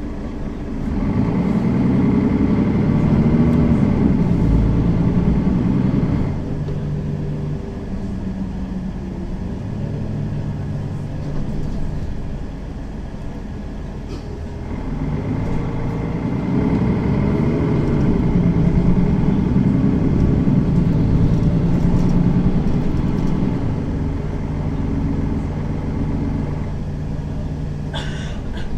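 Mercedes-Benz Citaro facelift city bus's diesel engine pulling away twice, its pitch rising and stepping up through the automatic gearbox's shifts, then settling to a quieter cruise in between. A short high-pitched sound comes near the end.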